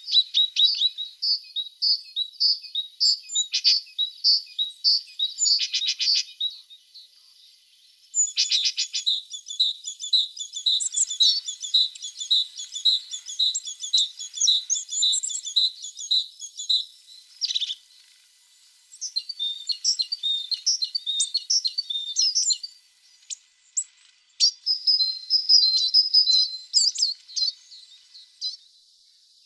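A tit singing: rapid, high chirping notes in phrases lasting several seconds, broken by short pauses, with one lone note between two phrases.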